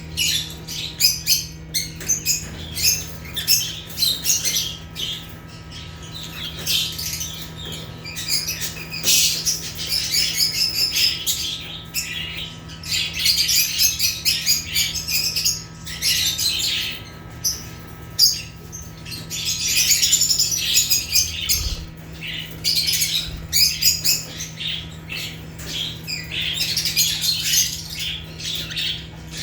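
Lovebirds (Agapornis) chattering: rapid high-pitched chirps and squawks in dense bursts with short lulls between them, over a low steady hum.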